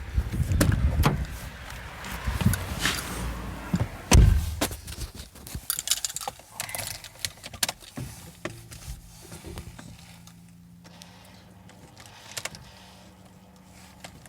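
Car keys jangling among clicks and knocks of handling, with a heavy thump about four seconds in. After that it settles to a faint steady low hum.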